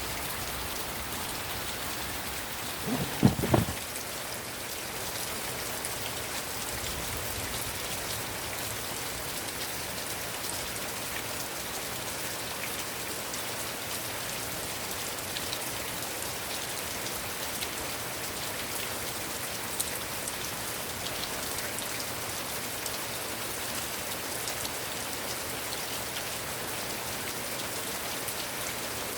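Heavy rain falling steadily, an even hiss of drops. About three seconds in there is one brief low thump, the loudest sound in the stretch.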